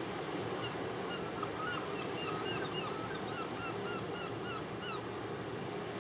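A bird calling a rapid series of short, downward-curving notes, about three a second, starting about a second in and stopping near the end, over steady background noise.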